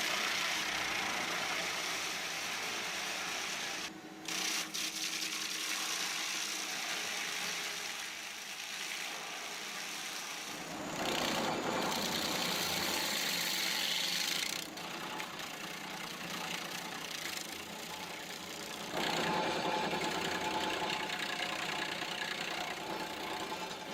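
Engine of heavy stump-removal machinery running steadily, the sound changing abruptly a few times.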